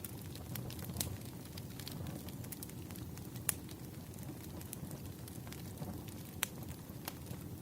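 Wood fire burning in a fireplace: a steady low rumble of flames with scattered sharp crackles and pops, a few louder ones about a second, three and a half, and six and a half seconds in.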